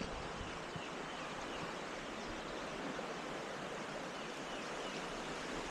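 Steady rushing of a flood-swollen river, an even hiss that does not change.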